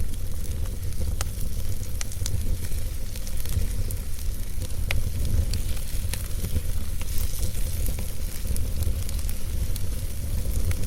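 Wood fire burning in a fireplace: a steady low rumble and hiss of the flames with irregular crackles and sharp pops from the burning logs.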